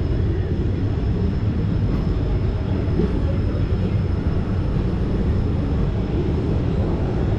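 Steady low rumble of a moving passenger train heard from on board, wheels running on the rails.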